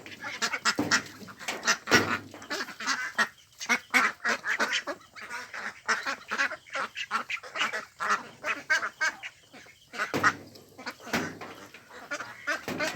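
A group of ducks quacking, many short overlapping quacks in quick runs.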